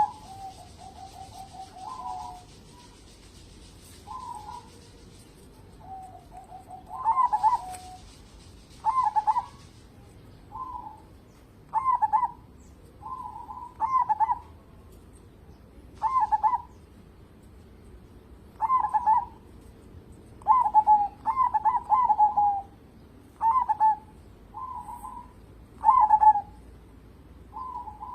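Zebra dove (perkutut) cooing over and over: short rolling coos about every second or two, with a couple of longer falling trills near the start.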